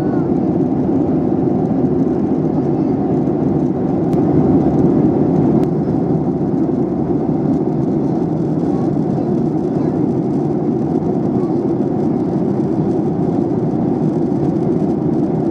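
Jet airliner cabin noise in flight: a steady rush of engines and airflow, strongest in the low range. It swells slightly for a second or two about four seconds in.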